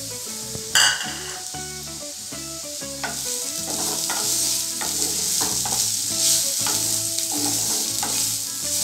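Potato cubes frying in mustard oil in a kadai, sizzling, while a spatula stirs and scrapes them around the pan, with a sharp knock a little under a second in. The sizzle grows louder after about three seconds.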